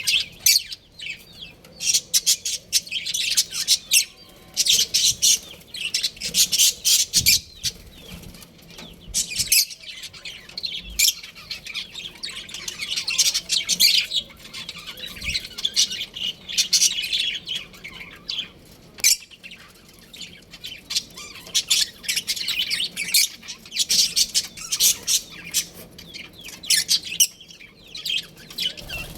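Several budgerigars chirping and chattering: rapid high-pitched chirps in bursts, with short lulls between them.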